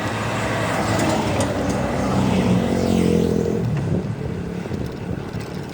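A motor vehicle's engine passing close by on the road, growing louder then fading away about four seconds in, over steady road noise.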